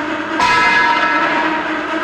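A bell-like metallic ring, struck once about half a second in and slowly dying away, over a steady ringing hum.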